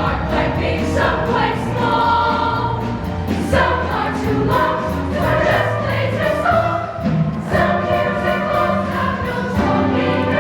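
Show choir singing in harmony over a backing band.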